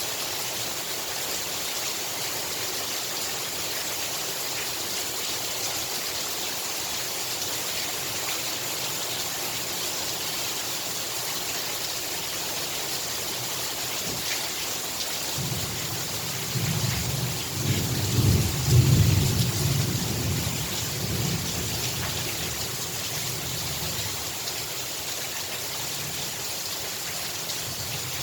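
Heavy rain falling steadily, with a roll of thunder that builds about halfway through, peaks a few seconds later and rumbles away.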